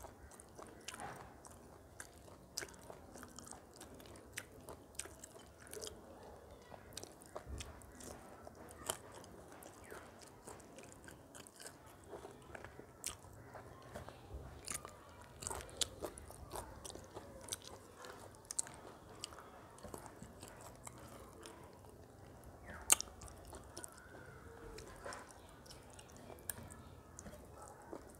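Chewing of rice and chicken curry eaten by hand, with scattered small clicks and smacks throughout and one sharper click about three-quarters of the way in.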